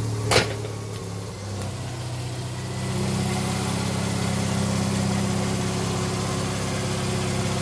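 Mazda RX-7 FC's naturally aspirated 13B rotary engine idling steadily, warmed up with the thermostat just open. There is one sharp click about half a second in, and the engine note grows a little louder about three seconds in.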